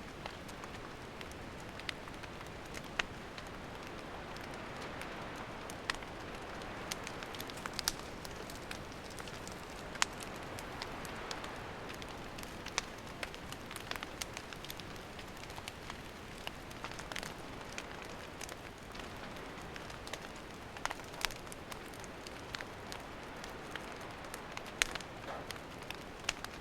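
Wood campfire burning: a steady soft hiss with irregular sharp crackles and pops of burning firewood.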